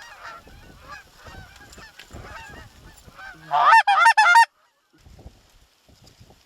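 Geese honking repeatedly, then a much louder rapid run of about six honks lasting about a second, which cuts off suddenly.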